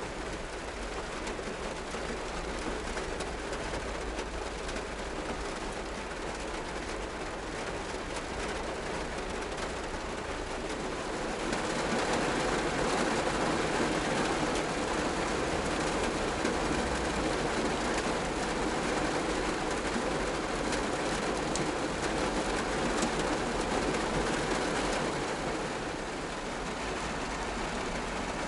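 Steady rainfall, growing heavier about eleven seconds in and easing slightly near the end.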